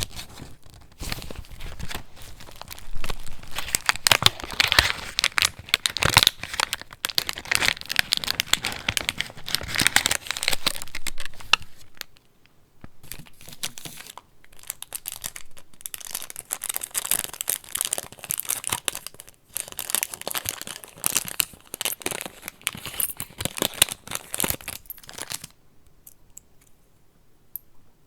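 Paper pages of a handmade junk journal being handled and turned, crinkling and rustling in dense runs. There is a short lull about twelve seconds in, and the sound drops to a few faint ticks for the last few seconds.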